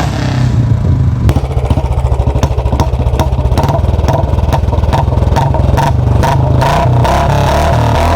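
Royal Enfield Bullet 350 single-cylinder engine running loud through a free-flow C-bend pipe and short Punjab silencer. From about a second in, a run of irregular sharp pops and crackles sounds over the exhaust note.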